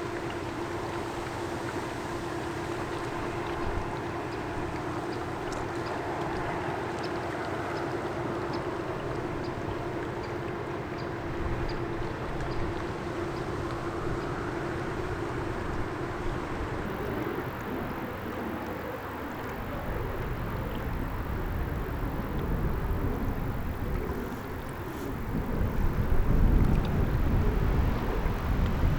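Steady engine hum of a ship passing on the canal, with one held tone that stops partway through. A low rumble builds and is loudest near the end.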